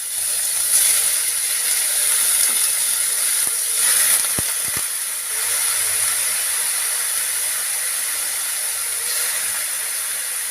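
Chicken pieces with ginger-garlic paste sizzling as they fry in hot oil in a kadai: a steady frying hiss that swells briefly twice, with a few light knocks near the middle.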